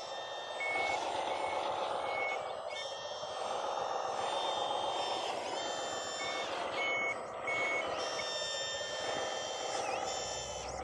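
Reversing warning beeper of an RC construction truck, giving short, evenly pitched beeps in two runs, under a steady wavering whine of small electric motors.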